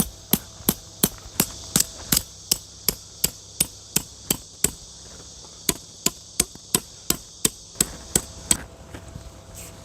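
A hammer driving a tent peg with quick, even blows, about three a second, with a break of about a second midway, stopping near the end. A steady high insect drone runs behind it.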